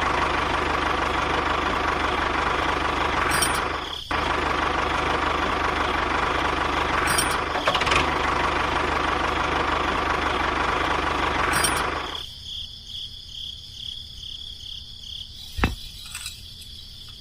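A small motor running steadily with a buzzing rattle. It drops out for a moment about four seconds in and stops about twelve seconds in, leaving quieter handling noise and one sharp click near the end.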